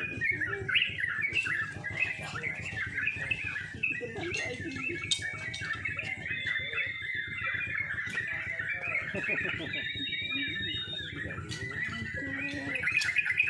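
Many caged yellow-vented bulbuls singing at once in a contest, a dense, unbroken chorus of bubbling, chattering phrases, over a low murmur of people.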